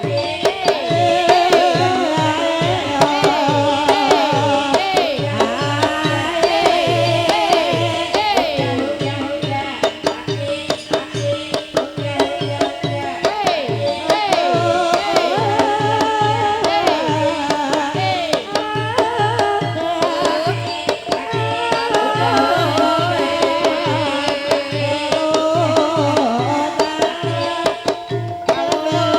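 Javanese gamelan music accompanying an ebeg dance: a kendang drum keeps a steady beat under a singer's gliding, wavering melody.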